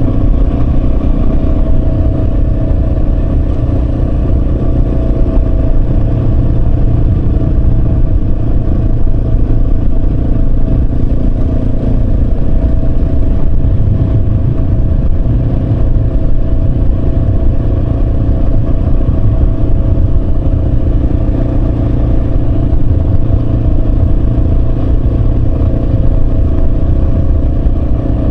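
Yamaha Serow 250's single-cylinder four-stroke engine running at a steady pace while the motorcycle is ridden, its pitch holding nearly constant, over a dense low rumble.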